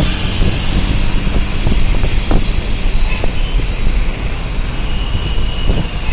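Steady road traffic noise: vehicle engines and tyres rumbling, with a few short knocks.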